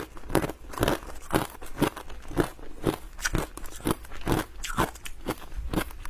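A person chewing and crunching hard ice with the teeth, in a steady rhythm of about two crunches a second.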